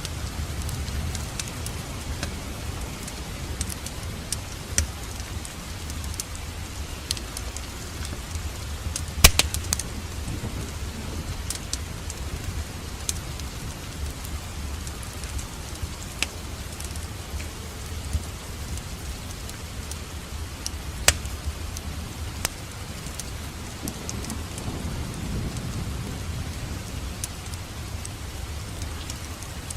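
Wood fire crackling in a fireplace: a steady low rumble and hiss of burning with scattered sharp pops, a quick cluster of loud pops about nine seconds in and another loud pop about 21 seconds in.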